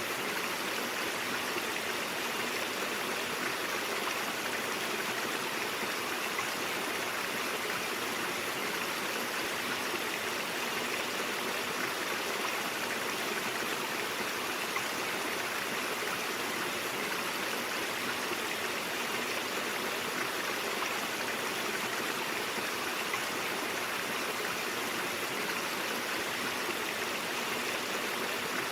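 Brook water running over rocks, a steady, even rush of flowing water.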